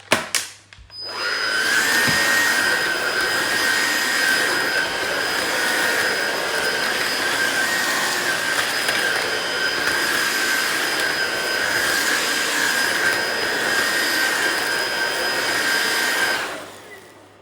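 Hoover ONEPWR Emerge Plus cordless stick vacuum vacuuming a hard floor. It switches on with a click, its motor spins up into a steady high whine, and it winds down near the end.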